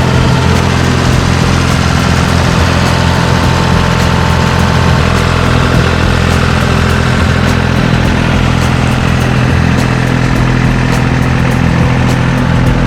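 John Deere 350 crawler dozer's diesel engine running steadily, with scattered sharp clicks over it.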